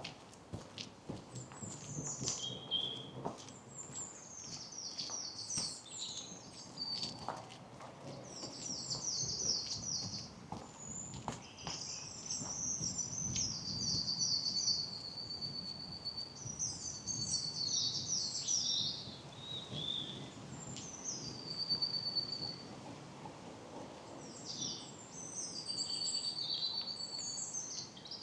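Songbirds singing, a new trilled phrase every few seconds, some ending on a held high note, over soft footsteps on a path.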